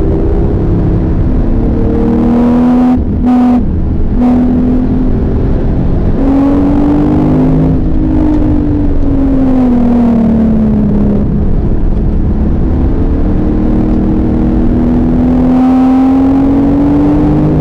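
Porsche 911 GTS's twin-turbo flat-six under hard driving. Its pitch climbs with brief breaks about three seconds in, sweeps up and then falls away through the middle, and rises again toward the end.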